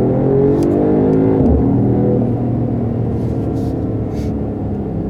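Mercedes-AMG GT 43 4-Door Coupé's turbocharged straight-six accelerating, its pitch rising until a gear change about a second and a half in, then running steadily at lower revs.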